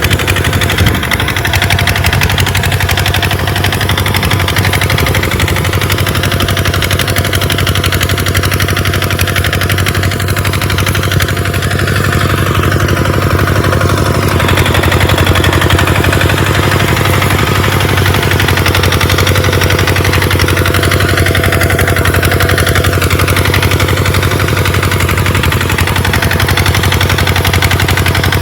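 Tractor engine running at a steady speed: a constant, loud, low drone whose pitch holds the same throughout.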